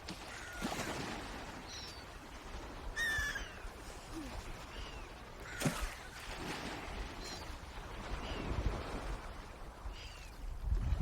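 Birds calling: short, high calls that fall in pitch, repeated about once a second, the loudest about three seconds in. A low rumble like wind underlies them, with a sharp click near the middle.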